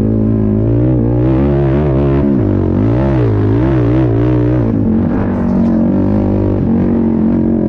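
Race ATV engine running hard, its pitch rising and falling over and over with the throttle through the first half, then holding steadier.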